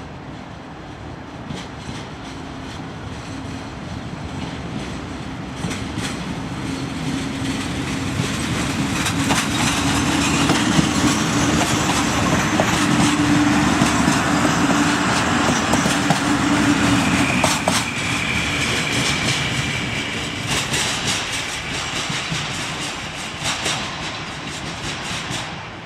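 A regional passenger train pulling past on the rails, its engine humming and its wheels clicking over rail joints. It grows louder to a peak about halfway through, then fades, with a brief high wheel squeal a little after the peak.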